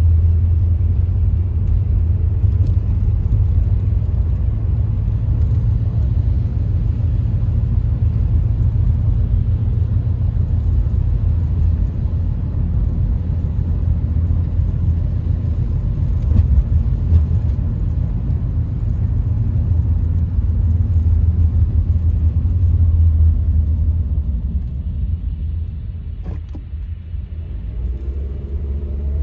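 Car driving, a steady low road-and-engine rumble; it eases off for a few seconds about three-quarters of the way through, then picks up again near the end.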